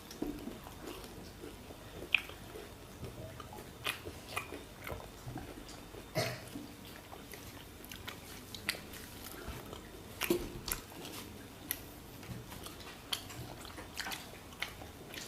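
Jilapi (jalebi), a syrup-soaked fried sweet, being bitten and chewed, with scattered short clicks at irregular moments.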